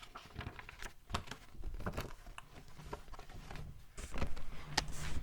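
A paperback picture book being handled and opened, its pages turned: a scattering of light clicks and rustles, with some low thumps about four seconds in.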